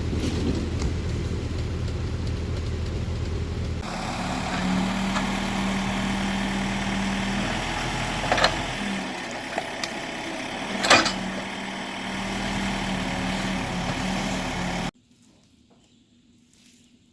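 An engine running steadily, heard in two cut-together stretches: a low hum, then from about four seconds in a higher steady tone with two sharp knocks. The sound stops abruptly near the end, leaving near silence.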